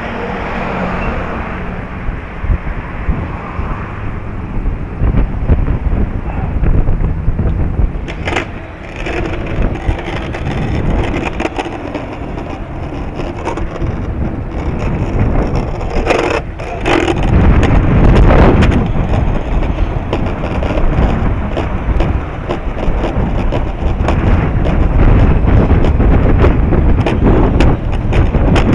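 Strong wind buffeting the microphone: a loud, gusty rumble with a big surge about two-thirds of the way through.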